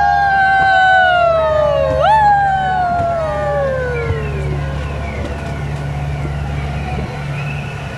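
Miniature railway train running in a tunnel, a steady low rumble. Over it, two long wailing tones each swoop up sharply and then slide slowly down in pitch, the second about two seconds in. Fainter descending wails follow.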